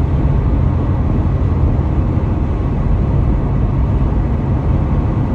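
Car driving at highway speed: a steady low rumble of tyres on the road and engine.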